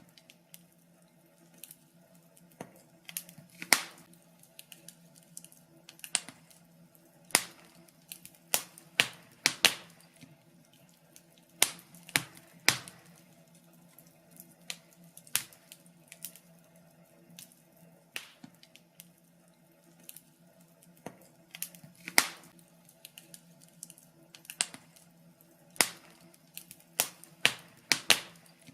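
Wood fire in a fireplace crackling, with irregular sharp pops and snaps, some single and some in quick clusters, over a steady low hum.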